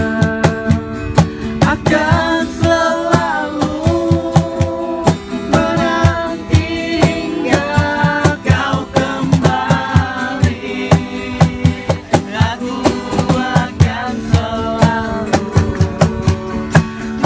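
A pop song: a solo voice singing over guitar and a steady drum beat, with the vocal coming in about two seconds in.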